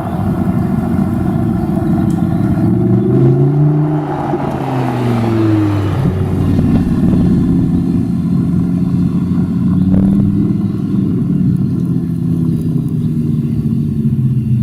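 A car engine rises and falls in pitch over the first six seconds, then runs steadily at an even pitch, with a single short click about ten seconds in.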